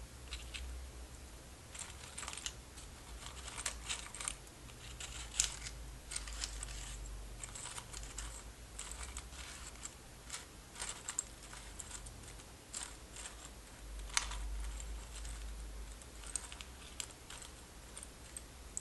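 Small hard objects handled close to the microphone, making irregular sharp clicks and light rattles in quick clusters, over a low rumble of handling.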